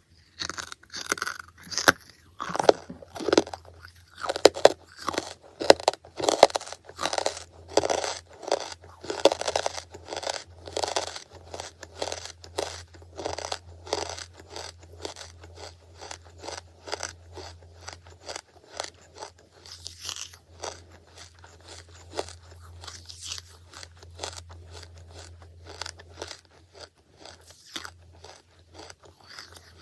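Close-miked crunching and chewing of charcoal in the mouth: rapid crisp crunches, loudest in the first half and easing to softer chewing later, over a low steady hum.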